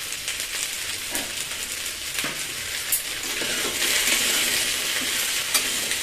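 Mixed chopped vegetables sizzling in oil in a kadai, with a spatula clicking and scraping against the pan as they are stirred. The sizzle grows louder about four seconds in, once the stirring starts.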